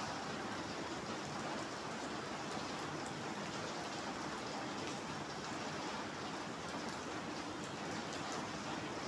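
Steady rain falling on wet paving stones, drops splashing into shallow puddles. An even, unbroken hiss of rain with fine pattering drops.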